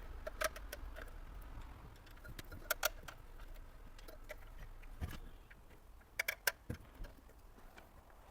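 Scattered light metallic clicks and taps as screws are undone from a car stereo head unit's metal casing and the parts are handled, with a pair of clicks about three seconds in and a quick cluster past the six-second mark.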